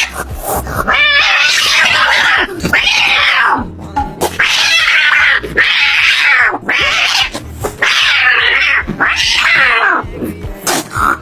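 A domestic cat caterwauling: about eight long, loud yowls one after another, each lasting around a second and rising then falling in pitch.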